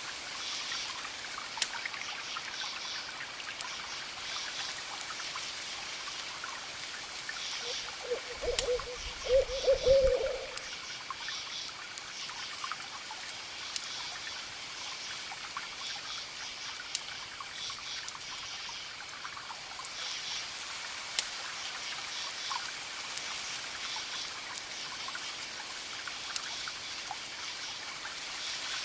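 Campfire crackling with scattered sharp pops, over crickets chirping in repeated pulses and a steady wash of distant waves. About eight seconds in, a short run of low calls from an animal, the loudest thing here, lasting a couple of seconds.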